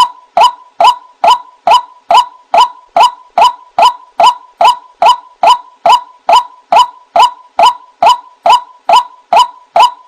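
White-breasted waterhen (ruak-ruak) giving its 'kru-ak' call over and over, short loud notes evenly spaced at about two and a half a second, played as a bird-trapping lure.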